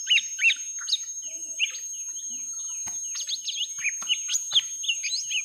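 Young cucak ijo mini (lesser green leafbirds) calling in a fight: a rapid, unbroken jumble of short curved whistles and chirps.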